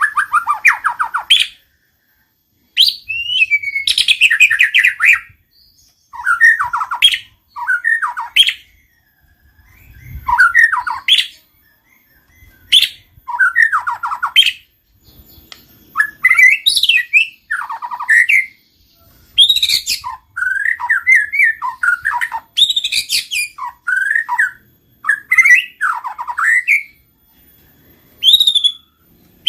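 White-rumped shama (murai batu) calling in a string of short phrases: sliding whistles mixed with fast rattling notes, each phrase lasting a second or two with brief pauses between.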